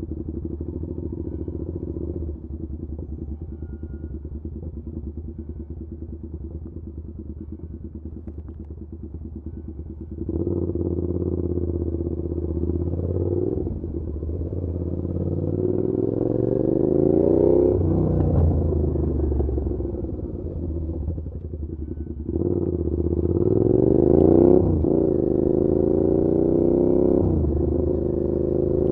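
Suzuki SV650's V-twin engine through an SC Project aftermarket exhaust, running steadily at low revs, then about ten seconds in the throttle opens and the revs climb and fall through gear changes, easing off around two-thirds of the way through before pulling hard again near the end.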